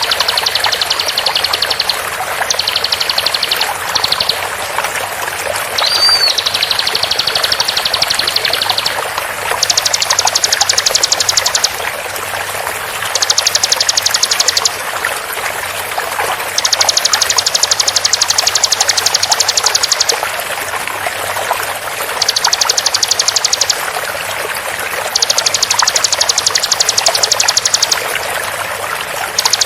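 Bar-winged prinia (ciblek) song over a steady rush of flowing water. It starts as a high chatter with a couple of quick slurs, then comes in bursts of very fast, tightly repeated high notes, each lasting one to three seconds with short gaps between.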